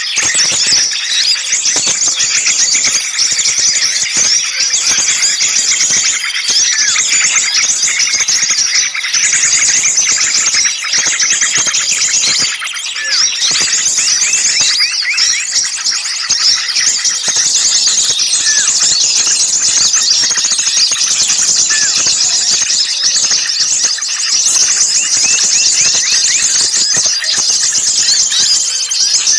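Bird-lure recording: a loud, dense chorus of many small songbirds chattering and calling over one another without pause, high-pitched. It is the agitated 'ribut' small-bird mix played to draw wild birds in.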